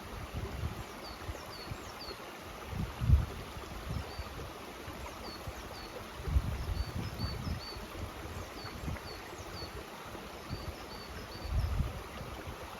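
Mountain stream running steadily, with a small bird chirping over it in short, high, repeated notes. A few low muffled bumps come through, the loudest about three seconds in.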